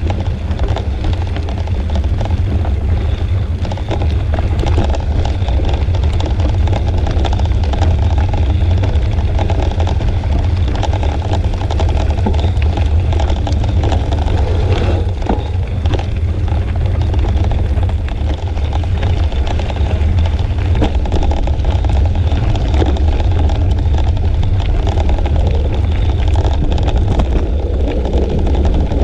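Steady low rumble of wind buffeting the microphone and road noise while riding, unchanging throughout.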